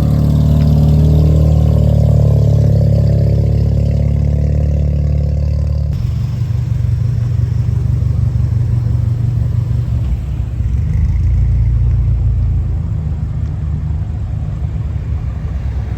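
Car engine running at low speed, a steady low rumble. It changes abruptly about six seconds in to a rougher rumble.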